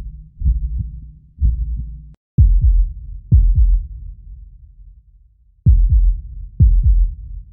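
Deep, heavy thumps at a slow, heartbeat-like pace of about one a second, with a brief drop-out about two seconds in and a longer gap in the middle.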